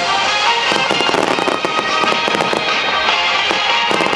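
Fireworks going off in quick succession, a dense run of pops and bangs from shells bursting, with music playing throughout.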